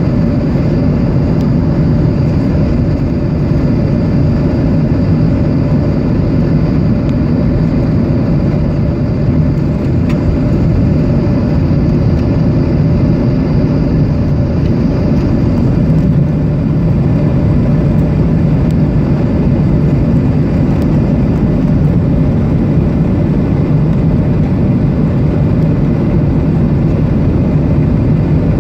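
Steady cabin noise of a Boeing 737-800 in flight: the CFM56 turbofans and rushing airflow make an even low rumble, with a faint high whine that fades about halfway through.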